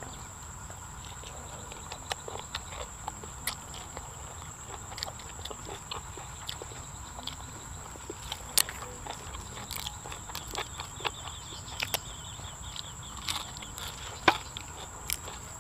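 A person chewing a mouthful of raw beef laab and sticky rice close to the microphone: a run of irregular wet clicks and crunches. A steady high insect trill runs behind it.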